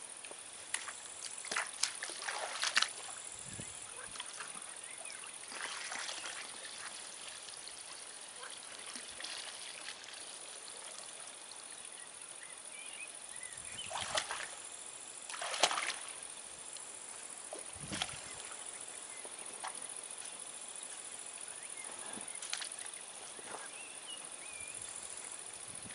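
Intermittent water splashing and sloshing at the lake edge while a carp is pulled in by hand on a line whose rod has broken. The splashes come in short bursts, the clearest about two seconds and about fifteen seconds in.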